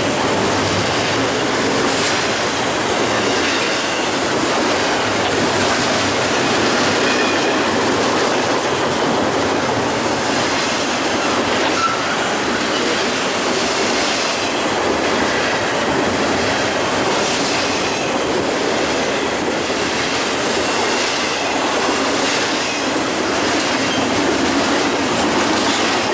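BNSF double-stack container freight train passing at speed: loud, steady noise of steel wheels running on the rails, with repeated clacks as the wheels cross rail joints and a faint high wheel squeal at times.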